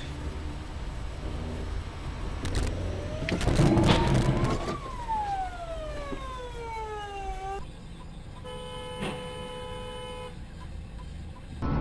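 Road traffic with a siren wailing up and down once, and a clatter of knocks at its loudest point about four seconds in. Then a car horn sounds steadily for about two seconds.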